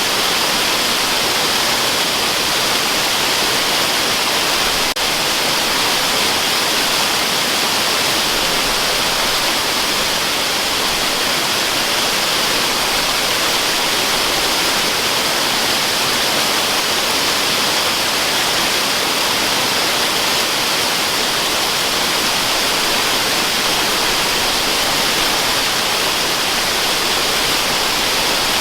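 Waterfall sound used as white noise: a steady, even rushing hiss, brightest in the upper range.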